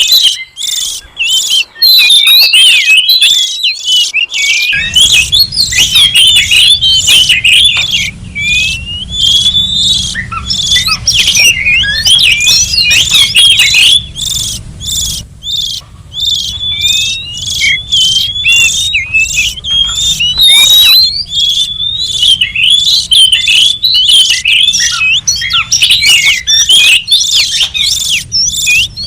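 Oriental magpie-robin (kacer) singing without pause: a fast, continuous run of varied clear whistles, chirps and trills. A faint low hum comes in underneath about five seconds in.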